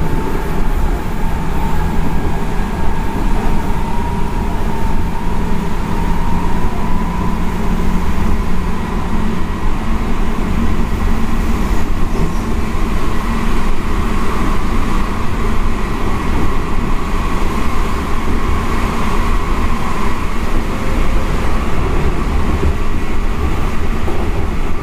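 Seibu 6000 series electric train heard from inside the car while running at speed: a steady rumble of wheels on rail, with a thin motor whine that rises slowly in pitch as the train gathers speed.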